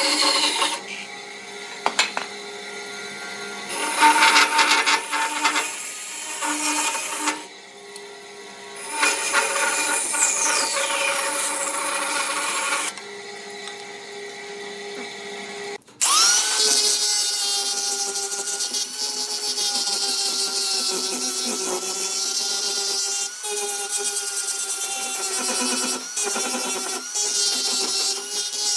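Electric power tools working wood, in several short segments that change abruptly. About halfway through, a tool's motor spins up quickly and then runs steadily with a steady whine.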